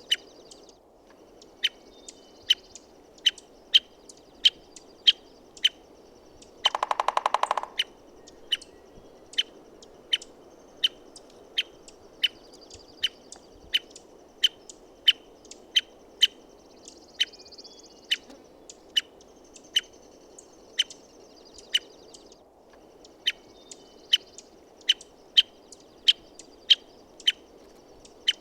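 American three-toed woodpecker giving sharp, single call notes, each a quick falling note, repeated about once or twice a second. About seven seconds in comes one short burst of rapid, even drumming lasting about a second. A steady low hiss runs underneath.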